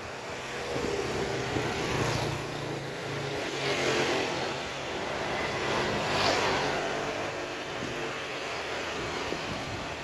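Motor vehicles passing close by on a street: engine hum with tyre hiss that swells and fades about three times, near two, four and six seconds in.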